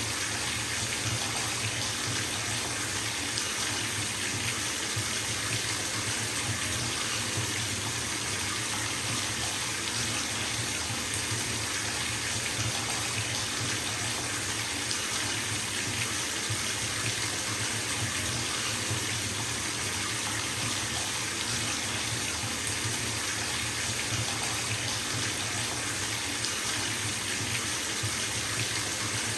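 Bathtub faucet running steadily, water pouring into the tub as it fills: a constant, even rush of water.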